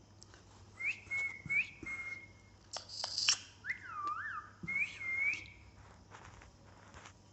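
Pet parrot whistling: a string of clear whistled notes that swoop up and down, with a short hissing burst partway through.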